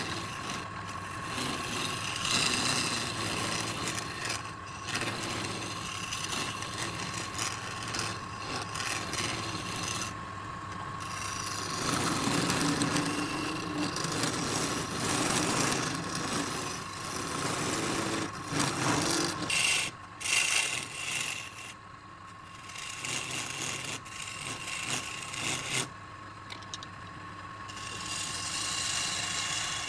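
Wood lathe running with a turning tool rasping against the spinning redwood burl: a steady whine under scraping, rubbing noise that shifts abruptly several times.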